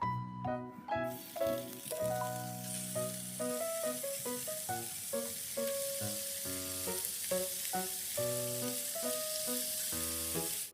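Food sizzling in a hot frying pan, a steady hiss that starts about a second in, with plucked background music playing over it.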